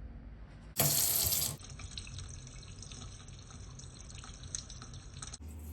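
Water running from a tap: a loud rush for about a second near the start, then a steady flow that stops abruptly near the end.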